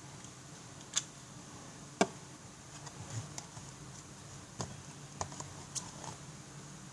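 Scattered light clicks and taps of small craft items being handled on a tabletop, with two sharper knocks about one and two seconds in and a run of smaller clicks later.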